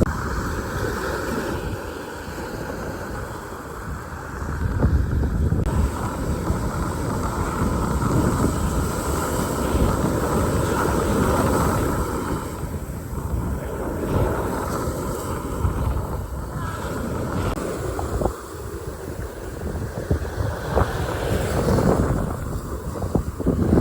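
Wind buffeting the microphone: a steady, gusty rumble that swells and eases over the stretch.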